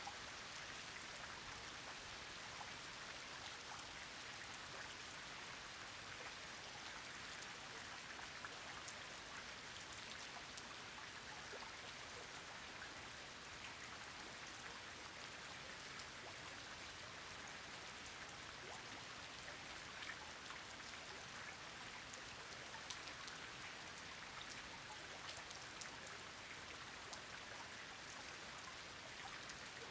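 Steady rain falling on a pond, an even hiss with many small drop ticks.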